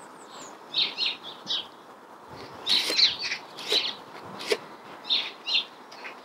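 Small birds chirping in short, scattered bursts, with a few light knocks mixed in.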